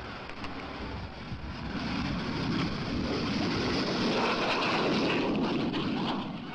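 Jet engine of a Jindivik target drone running loud. It swells about a second and a half in, holds, then drops away near the end.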